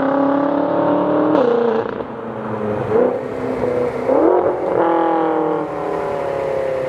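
BMW F10 M5's 4.4-litre twin-turbo V8 running through a straight-piped muffler bypass exhaust with race resonators. The engine note climbs under acceleration, breaks with a gear change about a second and a half in, rises and dips twice in the middle, then falls steadily as the car slows.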